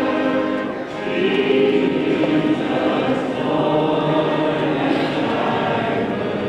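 A choir singing in sustained, held chords, with a brief break just under a second in before the next phrase begins.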